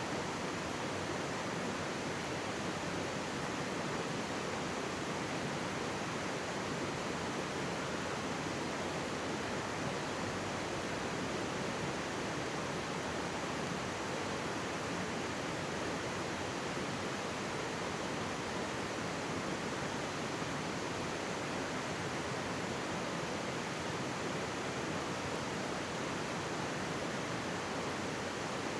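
Mountain stream flowing and babbling close by: a steady, even wash of running water.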